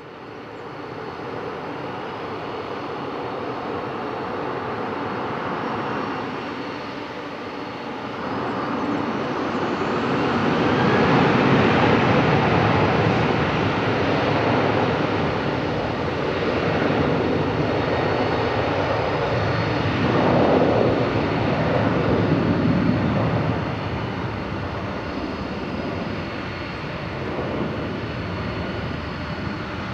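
Jet engines of a four-engine Boeing 747-400 airliner running loud. The sound grows louder about ten seconds in and swells again around twenty seconds with a gliding sweep in pitch, then eases a little.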